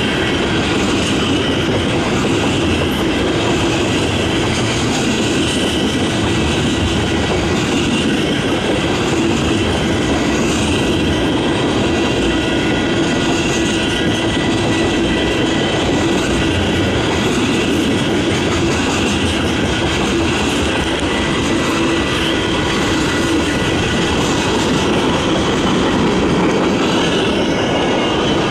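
Freight train of tank cars rolling steadily past: a continuous rumble of wheels on rail with clickety-clack, and a thin, steady high tone running over it.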